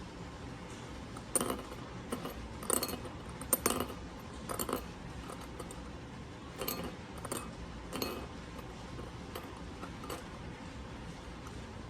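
Light metallic clinks and taps of a small ring knocking against a hard dish, about nine irregular knocks, each with a brief ringing.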